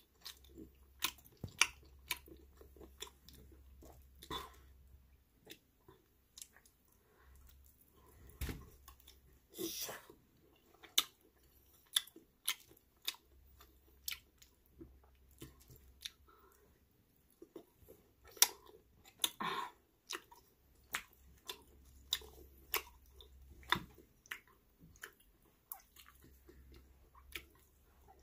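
A person chewing and biting grilled octopus and shrimp: irregular wet mouth clicks and crunches, a few of them louder and longer.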